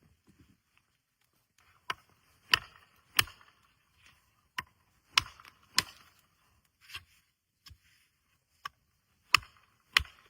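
A tool striking wood in a series of about eleven sharp chopping blows, irregularly spaced roughly half a second to a second apart, starting about two seconds in.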